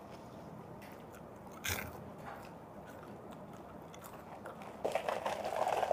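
Crunchy caramel popcorn being bitten and chewed: one sharp crunch a little under two seconds in, then quieter chewing. A louder, muffled sound comes in near the end.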